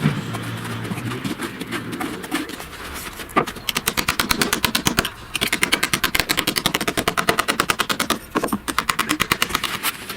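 Rapid, even hammering, about ten strikes a second, in runs broken by two short pauses, of the kind made by a power hammer chipping at masonry during renovation work.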